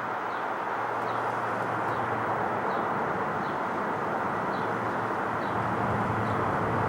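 Four-engine Boeing 747 jet airliner passing: a steady rushing that slowly grows louder as it comes in. A bird chirps a short falling note about once a second over it.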